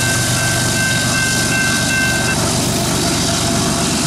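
Rear distributed-power locomotive (GE ES44AC) of a loaded coal train rumbling away past a level crossing, with a steady rush of wheels on rail. The crossing's electronic warning bell rings over it and stops a little over two seconds in, as the gates start to lift.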